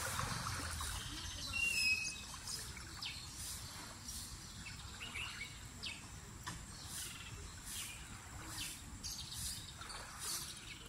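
Birds chirping: short, high calls repeating about once a second over faint outdoor background noise.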